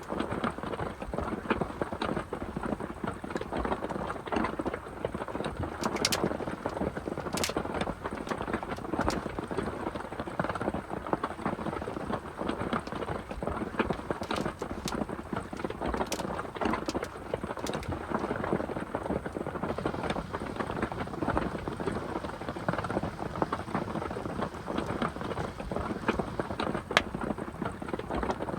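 Heavy rain falling steadily, with dense drops striking a surface and a few sharper drips standing out now and then.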